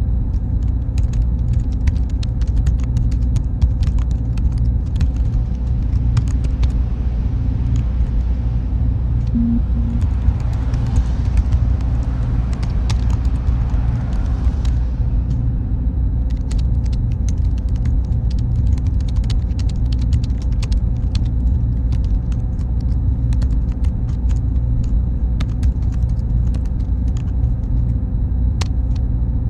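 Server-room ambience: a steady, heavy low hum of machines and cooling fans with a faint high whine. Faint scattered clicks run through it, and a soft hiss swells up and fades away about halfway through.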